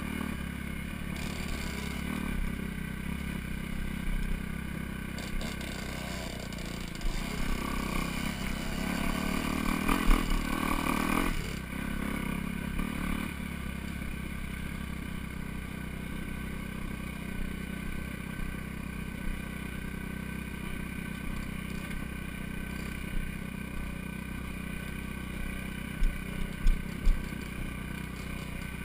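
Four-stroke dirt bike engine running at a fairly steady speed, with a louder burst of throttle about ten seconds in. A few sharp knocks come near the end.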